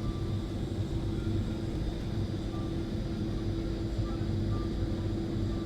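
Steady airliner cabin noise heard from inside the passenger cabin: an even rushing hum with a constant low drone running under it.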